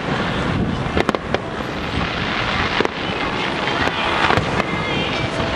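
Aerial fireworks display: a continuous crackle and rumble of bursting shells with sharp bangs, several about a second in and another just before three seconds.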